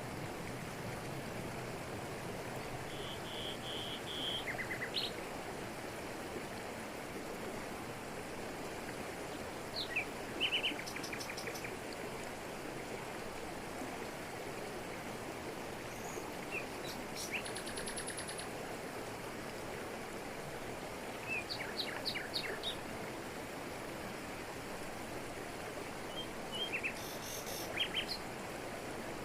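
Steady rush of a waterfall falling over rocks, with birds calling in short series of high chirps every few seconds, the clearest about a third of the way in and near the end.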